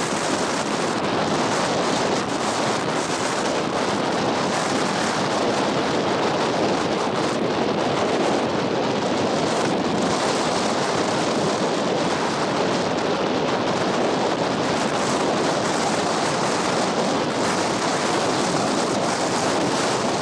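Loud, steady wind blowing across the microphone, mixed with the wash of surf on the beach.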